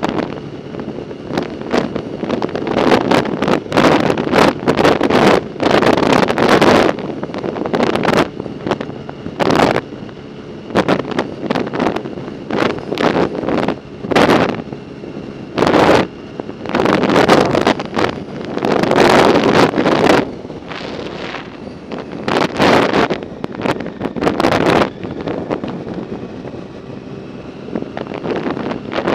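Wind buffeting the microphone of a camera on a moving bicycle, in loud, irregular gusts over a steady rush of air.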